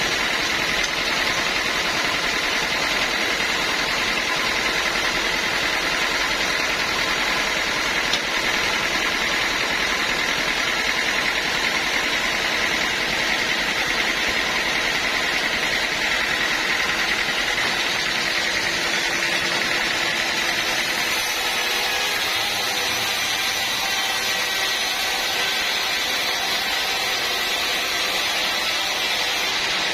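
Sawmill machinery running steadily, with a constant high whine over a dense mechanical noise.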